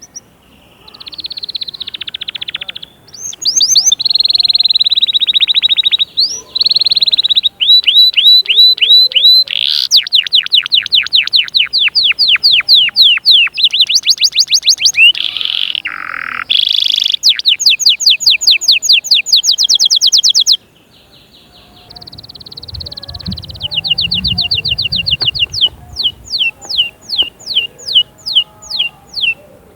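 Domestic canary singing a long, varied song of rapid trills and rolling repeated notes. It breaks off briefly about two-thirds of the way through and resumes more softly, ending with a run of separate falling notes, about three a second.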